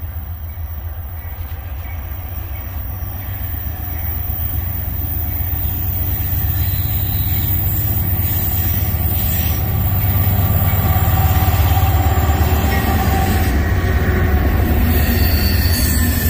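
Norfolk Southern freight train rolling by on the rails, its low rumble growing steadily louder. A thin high wheel squeal comes in near the end.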